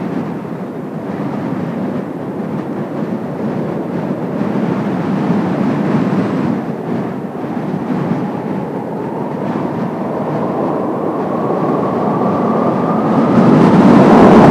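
Jet engines of a six-ship formation of Kawasaki T-4 jet trainers, a steady rumble with a higher whine that rises in pitch and grows louder over the last few seconds.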